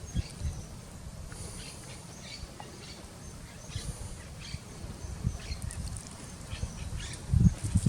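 Birds chirping in short scattered calls over a low, uneven rumble, with a few heavier low thumps near the end.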